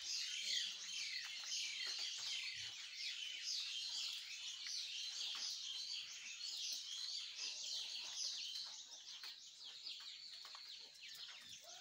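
A dense chorus of many small birds chirping, short quick chirps overlapping constantly, growing somewhat fainter in the last few seconds.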